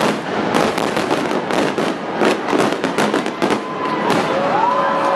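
Aerial firework shells bursting in quick succession: a rapid string of bangs and crackles that thins out about four seconds in.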